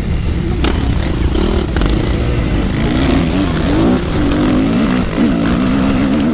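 Motocross bike engine running hard, its pitch rising and falling quickly as the throttle is worked.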